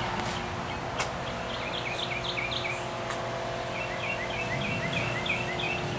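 A small bird singing: two runs of quick, repeated short chirps, the second starting about four seconds in, over a faint steady hum.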